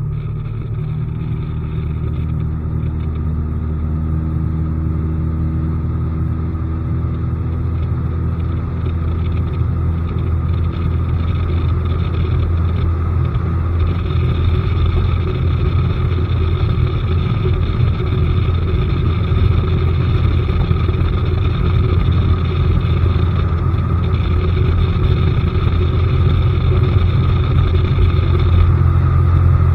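Outboard motor on a bass boat running steadily under way with a deep rumble. Its pitch climbs a little over the first several seconds, then holds.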